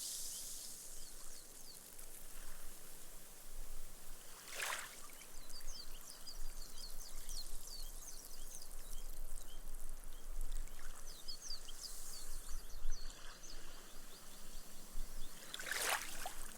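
Small, gentle sea ripples washing up a sandy beach and soaking into the sand, with a fine crackling fizz of foam bubbles bursting as the water drains away. A ripple laps in with a short splash about four and a half seconds in, and another near the end.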